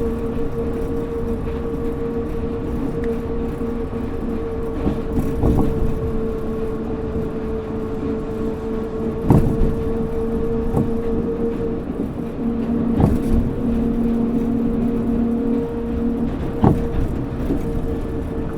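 Kobe New Transit 3000-series rubber-tyred automated guideway train running at steady speed: a steady motor whine over a low rumble, with a few short sharp knocks spaced several seconds apart.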